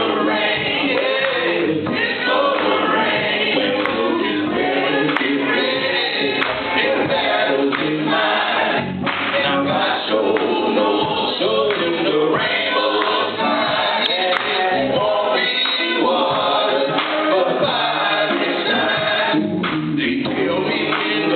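A group of men singing a gospel song together, several voices at once.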